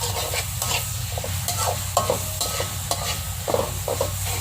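A cooking utensil stirring and scraping food that sizzles in hot oil in a pan, in quick, irregular strokes, a few each second.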